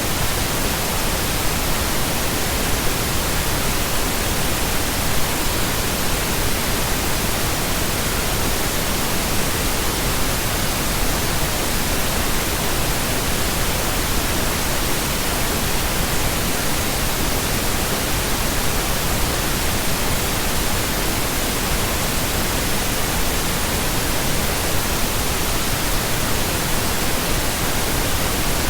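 Steady pink noise: an even, unchanging hiss spread across all pitches, with no breaks or other sounds.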